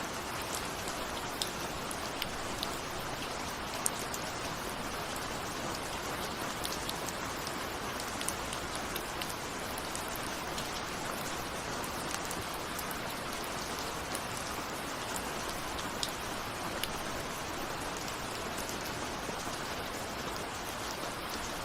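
Steady rain falling, an even hiss with many scattered sharp ticks of single drops striking close by.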